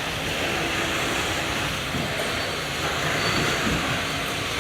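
Truck in slow motion, its engine running under a steady haze of road and body noise.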